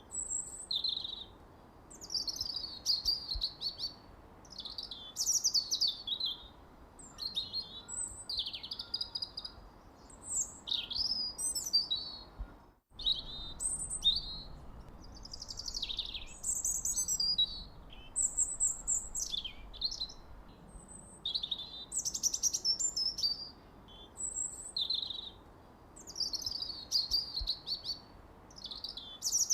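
Songbird chirping: quick, high twittering phrases with fast up-and-down sweeps, one after another with short pauses, over a faint hiss. The sound drops out briefly about thirteen seconds in.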